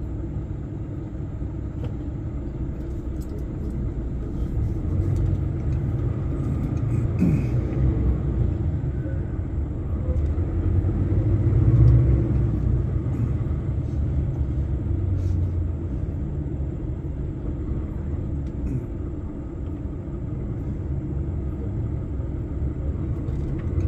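Steady low engine and road rumble inside a moving truck's cab, swelling to its loudest about halfway through.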